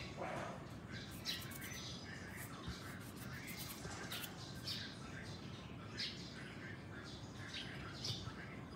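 Small birds chirping in the background, many short calls scattered throughout.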